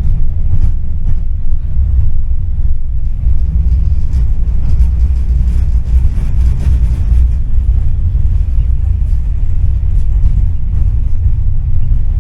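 Tram running along its rails between stops, heard from inside the passenger cabin: a steady, loud low rumble with scattered faint clicks and rattles.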